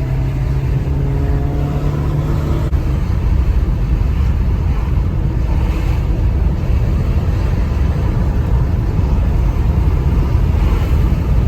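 Chevrolet Malibu's engine pulling under acceleration, heard from inside the cabin, its pitch climbing slowly. A little under three seconds in the engine note drops away, leaving a steady low road and wind rumble.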